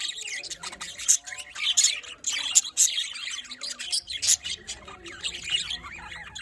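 A flock of budgerigars chirping and chattering, many short high calls and squawks overlapping without a break.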